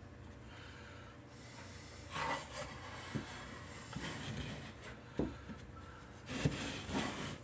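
Cedar birdhouse pieces being handled and shifted on a work surface: wood rubbing and scraping with a few short knocks, loudest near the end.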